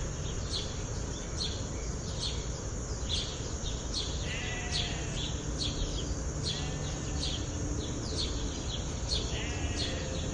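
Birds chirping in short, repeated high calls over a steady hiss.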